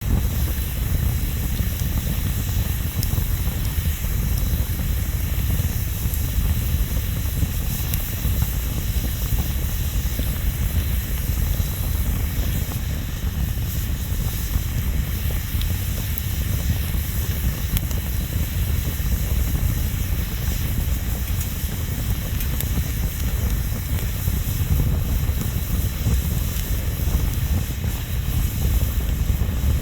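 Wood bonfire burning: a steady low rumble and hiss with occasional faint crackles.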